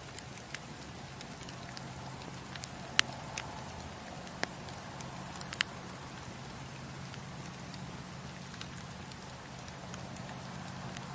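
Campfire crackling: a steady low rumble of burning wood with scattered sharp pops, the loudest about three seconds in and two more between four and six seconds in.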